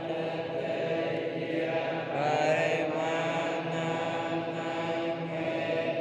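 A steady droning chant of held notes, with a short pitch slide a little over two seconds in.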